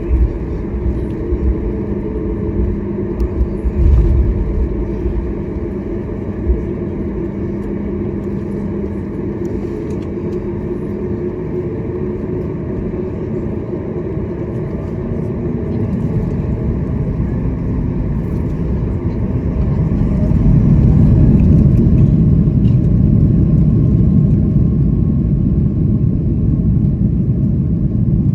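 Boeing 737 MAX 8 airliner noise: a steady low rumble that grows louder about two-thirds of the way through.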